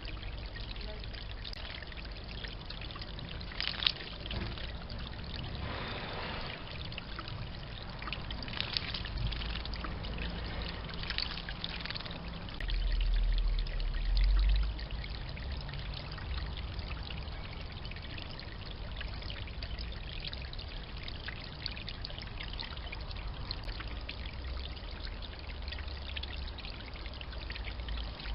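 Water trickling steadily, as from a bird bath's fountain or bubbler, with a few brief brighter splashes. A low rumble rises for a second or two about halfway through.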